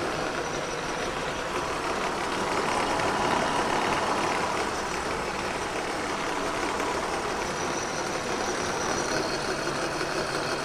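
Kearney & Trecker 2HL horizontal mill running with an insert cutter in its universal head, taking a steady climb cut across a cast iron straight edge under power feed. The noise swells a little about three seconds in.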